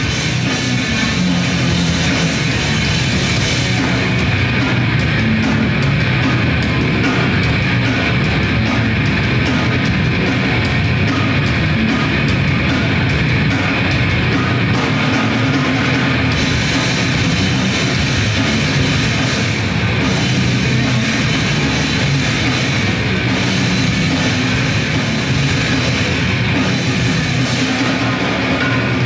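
Grindcore band playing live, loud and continuous, with distorted guitars and drum kit; a run of rapid cymbal and drum hits sits in the first half.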